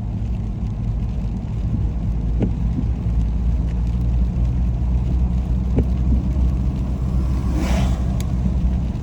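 Steady low rumble of a car's engine and tyres heard from inside the cabin while driving on a rain-wet road, with a brief swelling hiss near the end.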